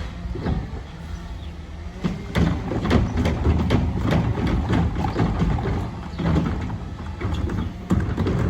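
CNG garbage truck with a Curotto Can automated arm picking up and emptying a yard-waste cart. The engine and hydraulics run steadily under a rapid series of clunks and bangs through the middle, as the cart is handled and dumped.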